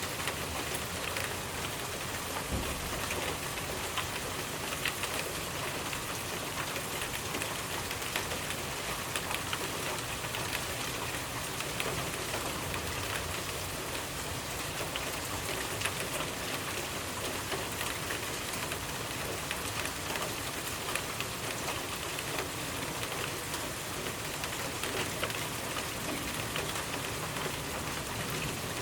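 Steady rainfall with many individual drops pattering on surfaces.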